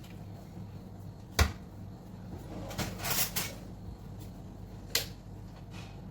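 Kitchen handling sounds: a sharp knock about one and a half seconds in, a brief scraping clatter around three seconds, and a click near five seconds, over a steady low hum.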